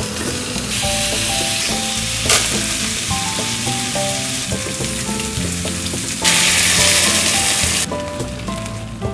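Food sizzling as it fries in a pan, the sizzle getting louder about six seconds in for a second and a half, then dropping back. Soft background music with a melody plays throughout.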